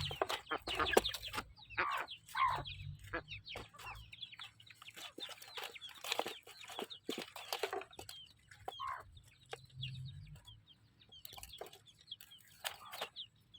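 Chickens clucking: a busy run of short calls that thins out about halfway through and picks up again near the end.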